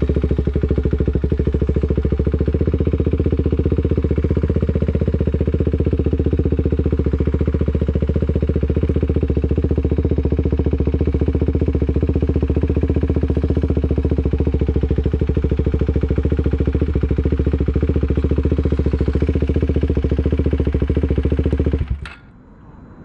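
Motorcycle engine running close by at a steady, low pace, then shut off abruptly near the end.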